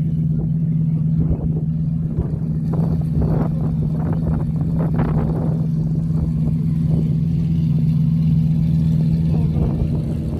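A car engine running with a steady low drone, with a cluster of short, sharper sounds around the middle.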